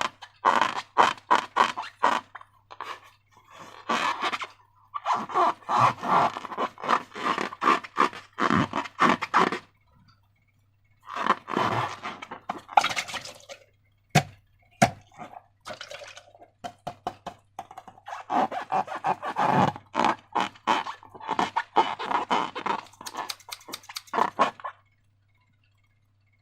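Slime being squeezed and worked by hand, in runs of sticky, crackling clicks and squelches broken by short pauses, with two sharp single clicks about halfway through.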